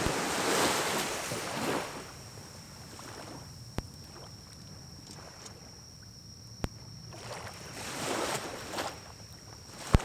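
Pine cones burning in a small wood-burning stove: three sharp pops, the loudest at the very end, between two swells of rushing noise, one at the start and one about three-quarters in. A steady high tone sits under it all.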